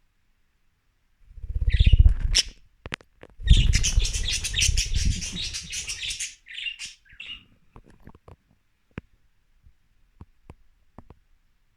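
Budgies flapping their wings close to the microphone, a fast fluttering in two spells of a couple of seconds each, with chirping over and after it. Near the end come a few scattered light ticks.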